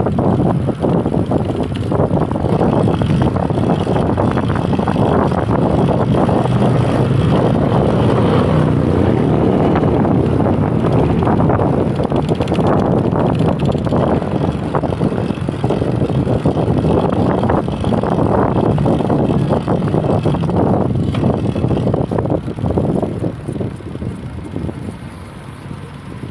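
Wind buffeting the microphone on a moving bicycle, a loud steady rush that eases off near the end.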